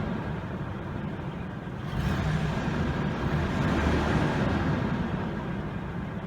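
2003 Ford F-150's 4.2-litre V6 engine running, heard from inside the cab, as a steady low drone that grows somewhat louder about two seconds in.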